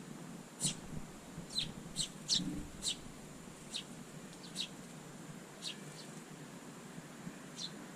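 Eurasian tree sparrows giving short, sharp chirps, about ten in all. They come in quick succession for the first few seconds, then more sparsely.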